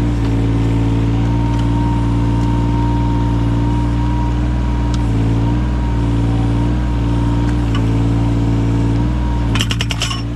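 Yanmar 017 mini excavator's diesel engine running steadily under a steady high whine. Near the end comes a quick burst of sharp knocks.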